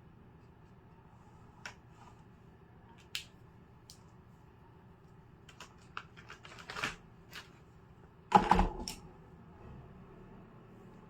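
Scattered light clicks and taps of small objects handled on a work surface, with a short louder clatter about eight seconds in.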